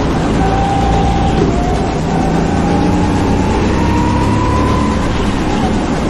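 Go-kart engine running hard around the track, its pitch rising and falling as it speeds up and slows through the corners.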